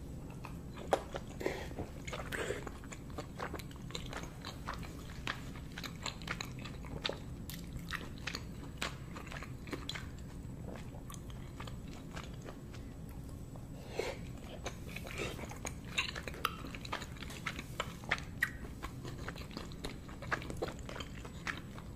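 Close-miked chewing and biting of steamed momo dumplings: soft wet mouth sounds with irregular sharp smacks and clicks.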